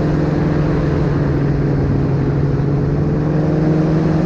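Paratrike engine and propeller running at a steady in-flight drone, an even pitch with no change, with wind rumbling on the microphone.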